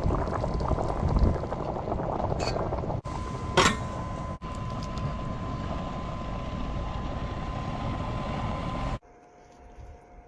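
A pot of cured pork rib soup boiling, bubbling steadily, with a couple of brief clinks. The bubbling breaks off briefly twice and stops abruptly about nine seconds in, leaving a faint hum.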